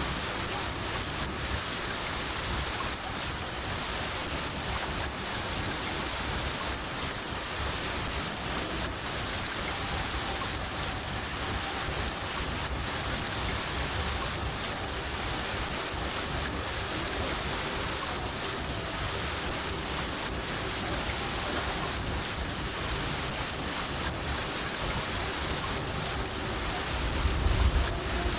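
A cricket chirping steadily, about three high chirps a second, over the even hiss of rain, with a low rumble of thunder near the end.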